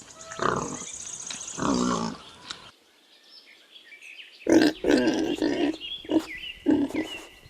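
Domestic pig grunting in short calls: two in the first couple of seconds, then, after a pause of about two seconds, a quicker run of four or five more.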